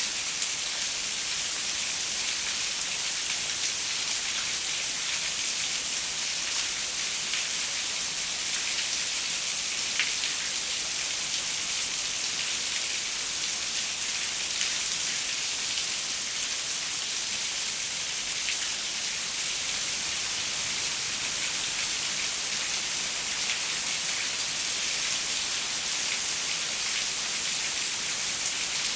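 Steady rain pattering on a window, an even hiss with scattered small drop ticks.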